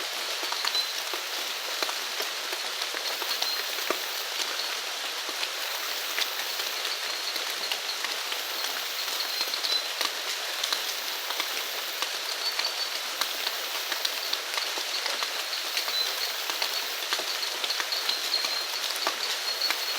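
Steady rain falling, with the patter of individual drops hitting a surface. A faint, high-pitched chirping call recurs every few seconds.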